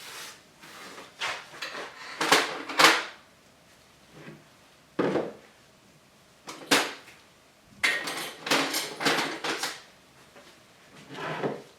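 Irregular knocks, clatters and rustles of objects being handled and set down, with quiet gaps between; the loudest come about two to three seconds in, and a quick cluster follows near the end.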